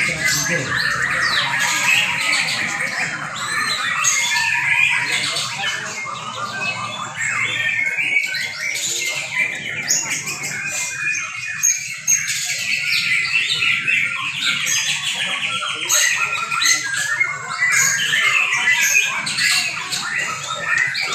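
Many young white-rumped shamas singing at once in contest: a dense, unbroken tangle of overlapping fast songs and calls.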